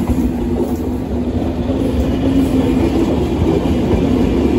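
Intercités Corail passenger coaches rolling past at close range: a steady, loud rumble of wheels on rail with a low steady hum.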